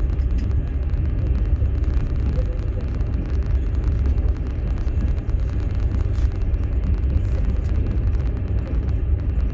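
Steady low rumble of a moving passenger train, heard from inside an open sleeper carriage as the wheels run along the rails.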